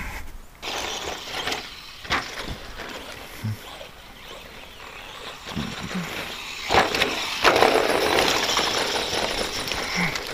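Stock brushed-motor ECX Circuit RC stadium truck driving over a rough dirt track: motor and tyre noise with a few sharp knocks, getting louder past the halfway point as the truck comes close.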